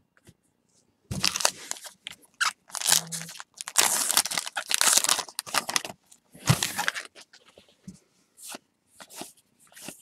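A trading-card pack wrapper being torn open and crinkled by hand, in a run of noisy crackling rips. The longest tear falls a little before the middle, followed by a few short crinkles.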